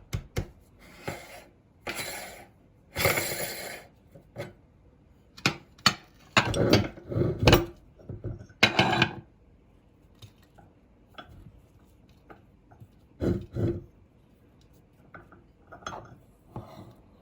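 A metal meat grinder working on hard-shelled colored chocolate candy, making irregular clinks, rattles and scrapes in scattered clusters with pauses between. The busiest stretch comes about halfway through.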